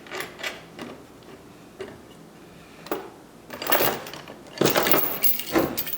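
Steel chain and bolt hardware clinking and rattling in spells of rapid clicks, the loudest run near the end.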